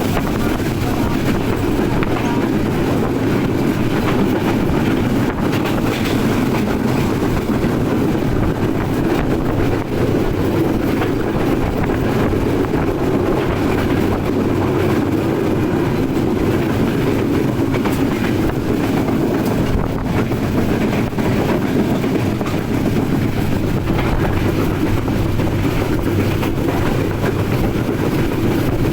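Express train in motion, a steady rumble of wheels on rail with faint scattered clicks, holding an even level throughout.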